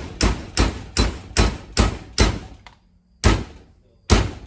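Hammer striking a metal piece, bending it into a tailgate latch: six quick, evenly spaced blows, then a pause and two more single blows.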